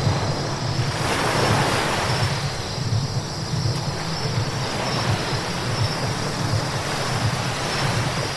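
Car driving on a wet road: a steady rush of tyre hiss and low road rumble, swelling louder for a moment about a second in.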